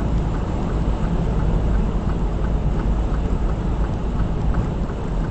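Semi truck running down the highway, heard from inside the cab: a steady low engine and road rumble, with a faint regular ticking about three times a second.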